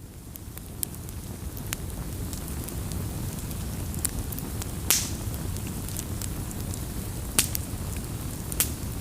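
Campfire crackling: irregular sharp pops and snaps of burning wood over a steady low rumble of flames. It fades in over the first couple of seconds, with one loud pop about halfway through and two more near the end.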